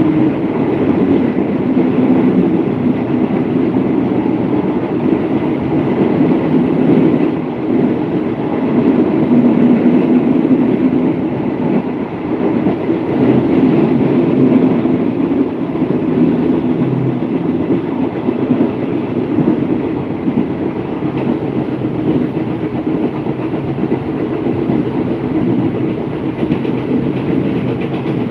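Passenger train running along the track, heard at an open carriage window: a steady rumble of wheels on the rails.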